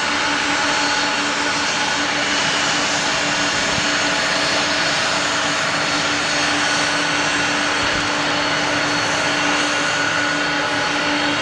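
Jet engines of a three-engined airliner running steadily, a continuous loud rush of noise with a steady whine held over it.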